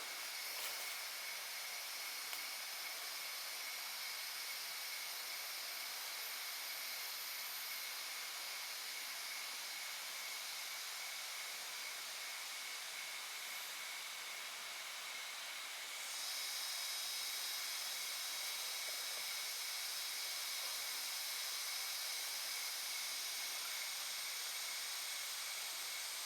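Steady hiss of rain falling in the forest, with a thin high-pitched drone held over it. It gets slightly louder about 16 seconds in.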